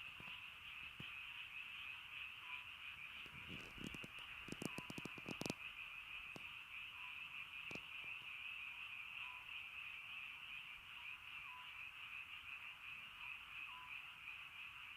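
A dense, steady chorus of frogs calling, with a faint short low note repeating about every two seconds. A brief cluster of sharp clicks and taps comes between about three and a half and five and a half seconds in, the loudest at its end.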